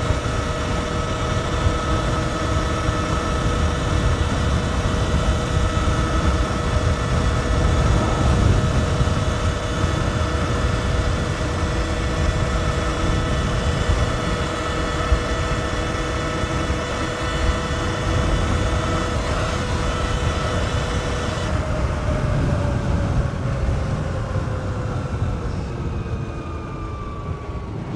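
Sur-Ron X electric dirt bike's motor and drivetrain whining at a steady cruise, under a rush of wind on the microphone. About three-quarters of the way through, the higher whine cuts out and the pitch falls steadily as the bike slows.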